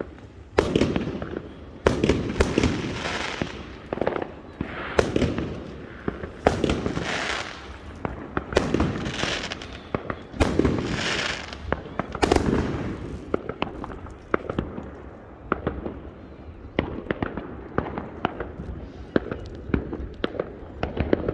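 Fireworks going off: a series of sharp bangs, each trailing off, then a quicker run of short crackling pops in the second half.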